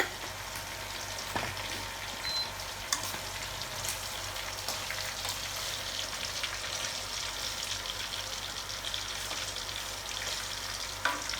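Pork pieces frying in hot oil, a steady sizzle with a few sharp clicks.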